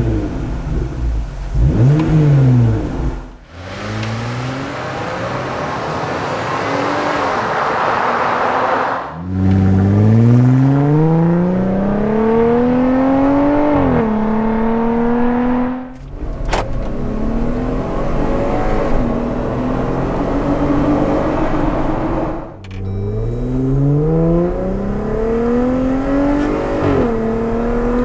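Jeep Wrangler with a K&N aftermarket exhaust accelerating hard, the exhaust note climbing in pitch and then dropping at each upshift, heard in several short takes cut together. One take, near the start, is mostly a rushing noise with little clear engine tone.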